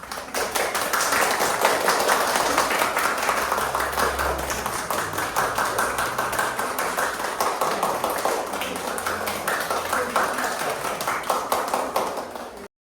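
Audience applauding: many hands clapping together in a dense, steady patter, which cuts off suddenly near the end.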